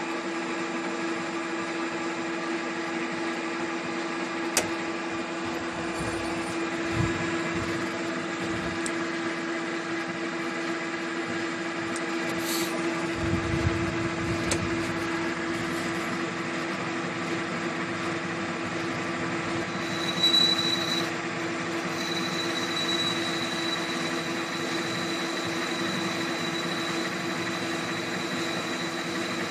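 Metal lathe running at reduced spindle speed while a boring cutter takes fine cuts inside a steel hydraulic-cylinder cup, to bring its taper into size. A steady hum with a constant tone, a few light clicks, and a thin high whistle that comes in about two-thirds of the way through.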